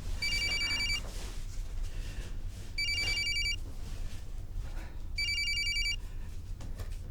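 Telephone ringing with an electronic trill, three rings about two and a half seconds apart.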